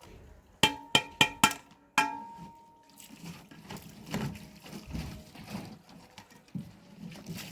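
A metal object struck five times in quick succession, each clank ringing briefly and the last ringing longest, followed by rustling and handling noise.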